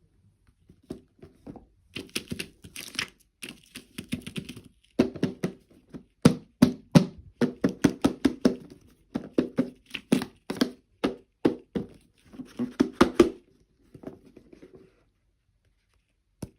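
Close-up handling of toy packaging and plastic doll parts: irregular crinkling, tearing and crackling with clicks and knocks, busiest in the middle stretch.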